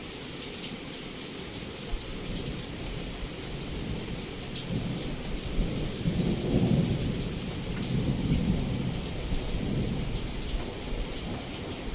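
Heavy rain falling steadily, with scattered drop ticks, while a low roll of thunder swells from about four seconds in, peaks a couple of seconds later and fades away near the end.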